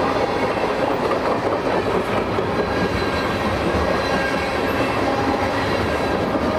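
Freight train cars rolling past close by, a steady, unbroken noise of steel wheels running on the rails.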